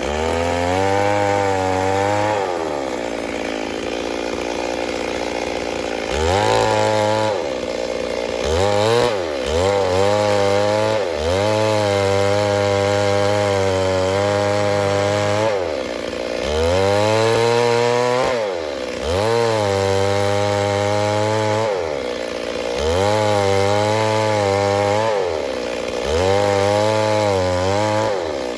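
Stihl MS 382 two-stroke chainsaw engine run at high revs and let back down, over and over, its pitch climbing and dropping every few seconds, with a lower, steadier stretch a few seconds in.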